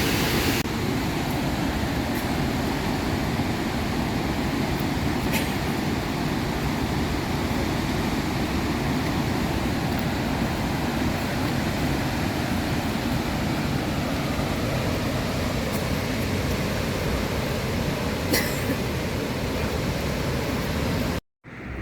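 Steady rush of falling water from Victoria Falls, an even, deep noise with no pitch, broken by a couple of faint clicks. It cuts off suddenly near the end.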